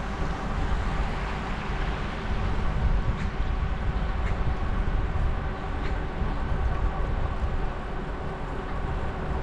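Steady low rumble of wind and tyre noise from a bicycle in motion, with a few faint ticks.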